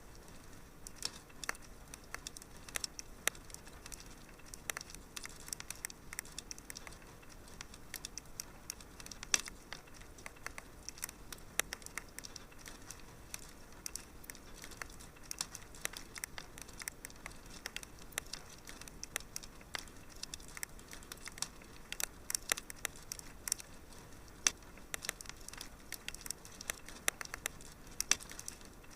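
Wood fire crackling in a fireplace: frequent irregular sharp pops and snaps over a soft steady hiss, with small clusters of pops here and there.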